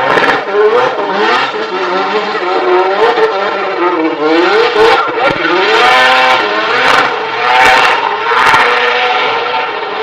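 A performance car's engine revving hard, its pitch rising and falling again and again, with several short bursts of rushing noise over it.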